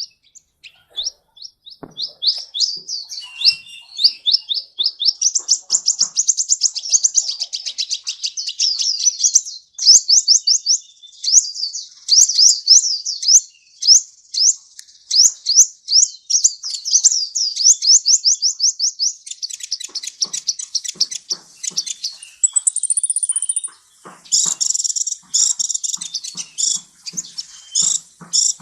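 Sunbird (the 'kolibri' of Indonesian songbird keeping) singing a long, fast run of high, sweeping chirps, several a second. After a short break late on, it gives a denser chattering phrase mixed with sharp clicks.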